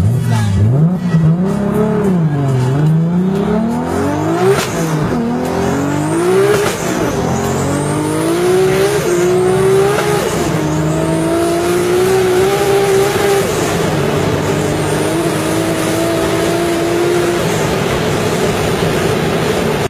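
Car engine at full throttle, heard from inside the cabin. Its pitch swings up and down quickly at first, then climbs in long pulls toward high rpm, dropping sharply at upshifts about halfway and about three-quarters through.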